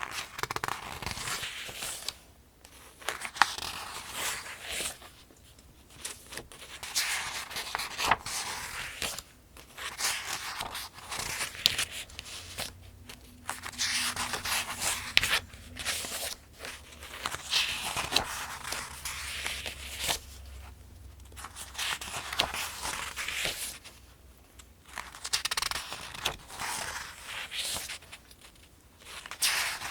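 Paper pages of the 2025 Farmers' Almanac being turned one after another, each turn a crisp rustle and swish of paper. The turns come in a steady rhythm, about one every three to four seconds, with short quiet gaps between them.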